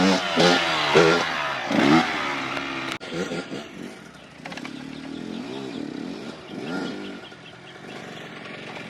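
Dirt bike engines revving, the pitch rising and falling in quick blips of the throttle. They are loud for the first two seconds, drop off suddenly about three seconds in, and then come back as fainter revving from a bike farther off.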